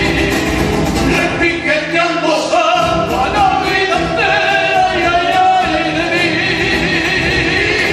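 Latin American folk song: voices singing over instrumental accompaniment, with long held, wavering notes in the middle.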